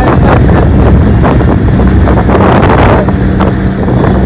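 Small motorboat's engine running steadily under heavy wind buffeting on the microphone; the engine's low hum stands out more clearly near the end.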